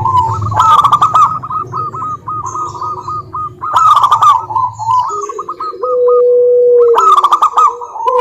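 Zebra doves cooing: fast runs of short, clipped notes, loudest at about one, four and seven seconds in. A longer, steady lower coo joins from about five seconds in.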